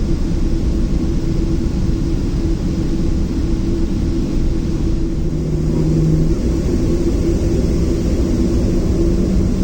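Boeing 737-700's CFM56-7B jet engines running steadily, heard inside the cabin as a loud, even rumble with a constant hum. A short lower tone joins briefly about five seconds in.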